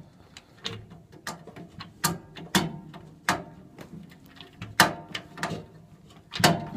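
Screwdriver working the mounting screw of a furnace flame sensor to unscrew it: a series of sharp, irregular clicks and scrapes.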